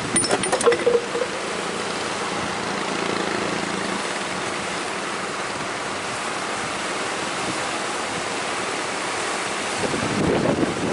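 Strong wind rushing over the microphone with sea surf, a steady noise. A few sharp knocks come in the first second, and a faint low steady hum runs underneath.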